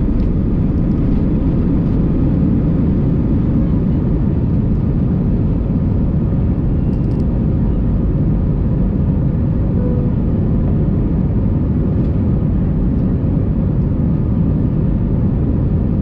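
Steady cabin noise of an Airbus A319 airliner in flight: a constant low rumble of engines and airflow with faint steady tones above it.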